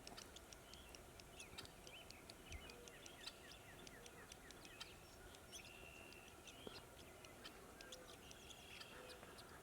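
Faint chirps and calls of small birds: many short, high notes scattered throughout, with a quick run of falling notes about two and a half seconds in.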